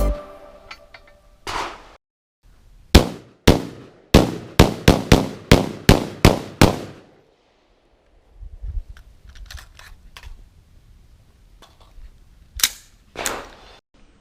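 Firearm shots: a rapid string of about ten, roughly three a second, with fainter clicks and handling noises after, then two more shots near the end.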